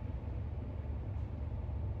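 Steady low rumble with a faint hiss: unchanging background room noise, with no distinct events.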